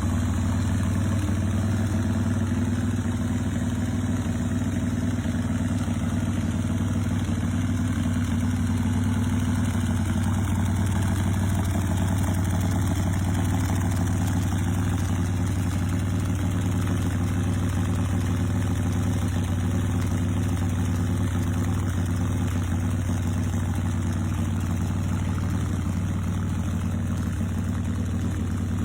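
2005 Titan Sidewinder chopper's S&S 124.9-cubic-inch V-twin idling steadily.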